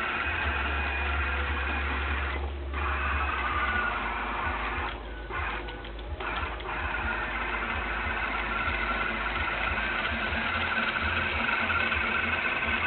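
Small electric gear motors of a Roomba-based robot with a robot arm whirring steadily under remote control. The whir cuts out briefly about two and a half seconds in, then twice more around five to six seconds in, as the motors stop and start again.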